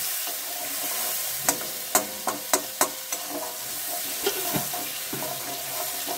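Ground spices mixed with water sizzling steadily as they fry in hot oil in a kadai, with stirring. Around a second and a half to three seconds in there are about six sharp clicks.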